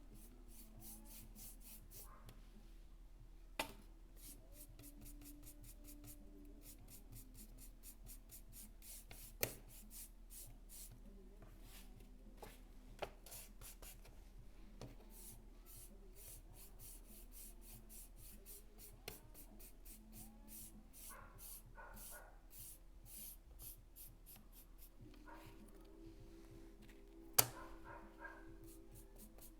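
A paintbrush brushing grey paint onto small craft pieces in quick, even, quiet strokes, with a few sharp knocks, the loudest near the end.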